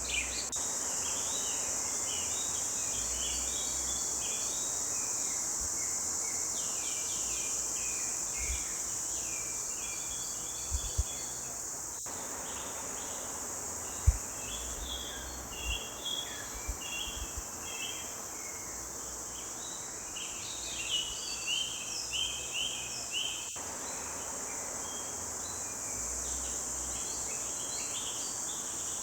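Songbirds singing in a forest: many short chirps and quick trills, in clusters, over a steady high-pitched insect drone. A few low bumps come through a little after ten seconds in and again near fourteen seconds.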